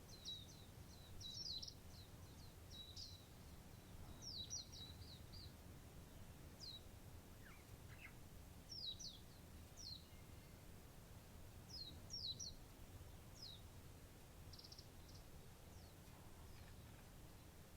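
Songbirds chirping faintly: short, high, quickly falling notes in little clusters every couple of seconds, over a faint low steady background rumble.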